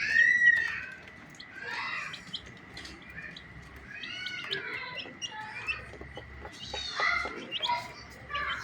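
Baby chicks peeping: many short, high chirps in irregular runs, loudest right at the start and again about seven seconds in.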